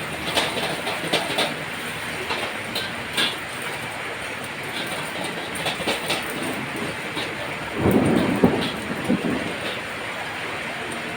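Heavy rain falling steadily, with scattered sharp clicks and a louder low rumble for about a second near the two-thirds mark.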